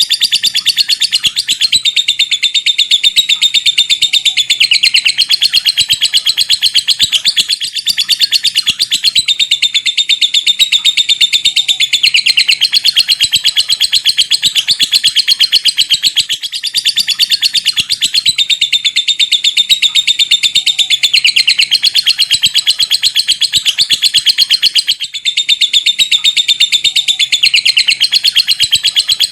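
Lovebird singing its long chattering trill (ngekek panjang): a fast, nearly unbroken run of sharp, high ticking notes, with a couple of brief breaks.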